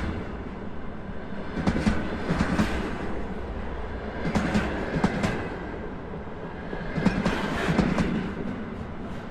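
Container train rolling past, its wagons' wheels clacking over rail joints. The clacks come in groups about every two to three seconds over a steady rolling rumble.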